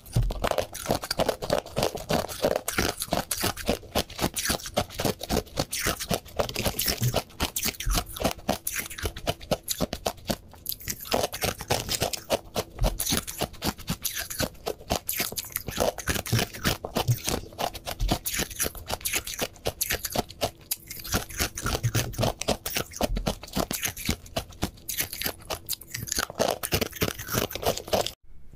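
Close-miked crunching and chewing of hard, glassy Tartary buckwheat ice pieces: a dense, rapid crackle of bites and chews, broken by a brief gap near the end.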